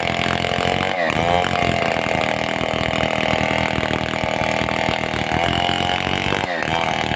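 Stihl 070 two-stroke chainsaw running at high revs with a steady pitch, which dips briefly and climbs back about a second in and again near the end.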